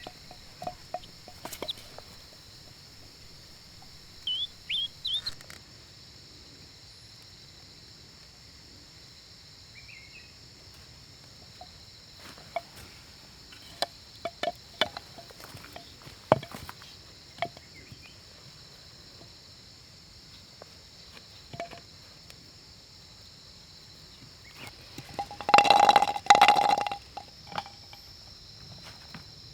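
Outdoor ambience with birds chirping over a steady high hiss, and scattered sharp clicks or knocks. Near the end comes a louder pitched sound lasting about two seconds.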